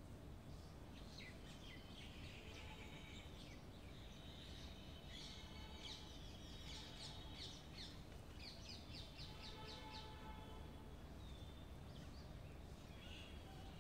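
Faint chirping and trilling of small songbirds, busiest in the middle, with a fast run of quickly repeated high notes past the middle, over a low steady outdoor rumble.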